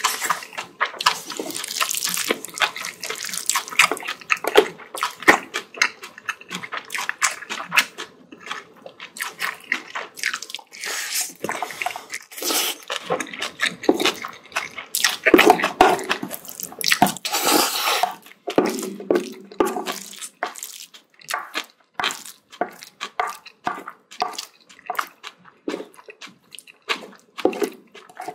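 Close-miked wet chewing and mouth sounds of someone eating bibimbap, a steady run of short smacks and clicks, with louder, noisier stretches about fifteen to eighteen seconds in.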